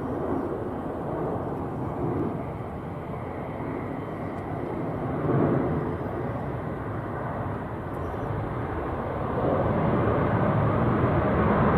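Jet airliner engine noise: a steady rumble that grows louder near the end.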